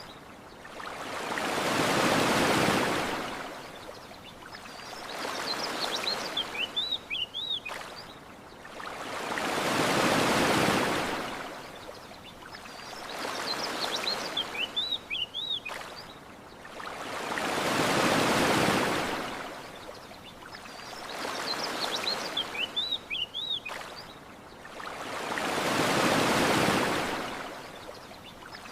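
Gentle ocean waves washing onto a beach, swelling and fading about every four seconds. Between the swells there are short runs of high bird chirps. The pattern repeats every eight seconds or so.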